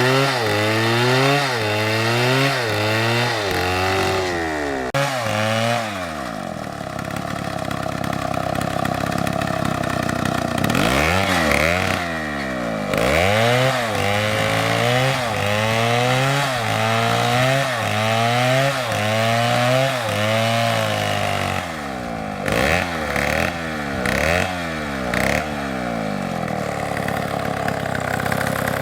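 STIHL two-stroke chainsaw cutting wood. Its engine pitch dips and recovers in quick repeated cycles as the chain works through the cut. It runs steadier for a few seconds in between, then gives several short separate bursts of throttle near the end.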